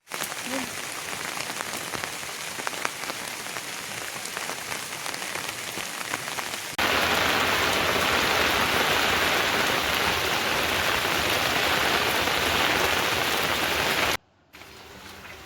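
Steady rain falling, with distinct drops ticking through it. About seven seconds in it cuts to a louder, heavier downpour, which cuts off suddenly near the end.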